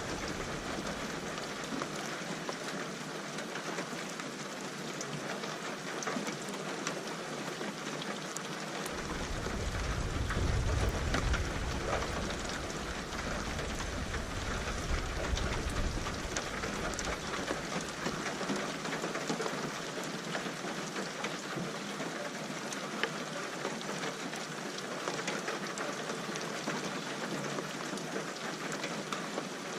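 Steady rain falling. About a third of the way in, a long roll of thunder rumbles in and fades out over several seconds.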